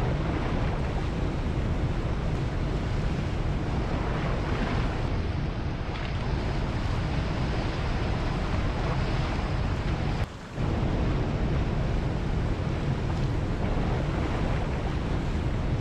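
Ocean surf washing steadily, with wind rumbling on the microphone. The sound dips out for a split second about ten seconds in.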